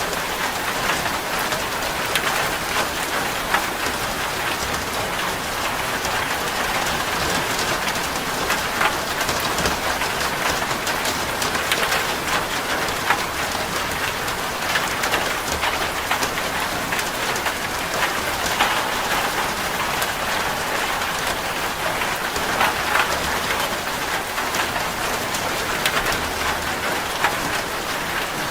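Steady rain drumming on a corrugated zinc sheet roof, a dense patter of drops with scattered louder ticks.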